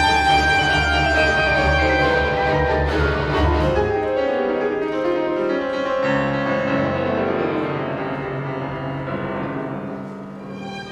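Piano with a string orchestra playing classical music. The low bass drops away about four seconds in, and the music thins and softens toward the end.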